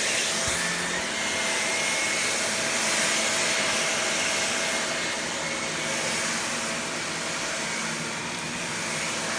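Vacuum cleaner running steadily, a constant rushing noise with a thin steady whine on top.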